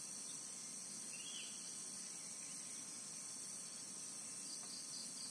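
Steady high-pitched insect chorus, crickets, with a faint short chirp about a second in and a few soft chirps near the end.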